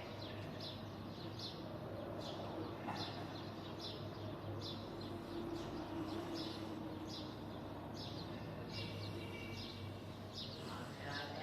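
A flock of sparrows chirping, many short high chirps overlapping all through, over a steady low background hum.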